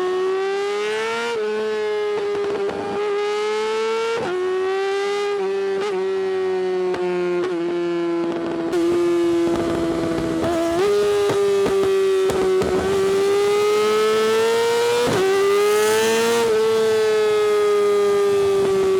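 Yamaha R6 inline-four with an Akrapovič exhaust running at high revs under way. Its high-pitched note climbs a little and then breaks with a sharp crack at each quick gear change, about every one to three seconds.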